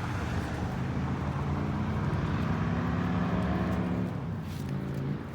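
2020 Chevrolet Corvette C8's V8 engine running, its note climbing slowly, then easing off to a lower, quieter note about four seconds in.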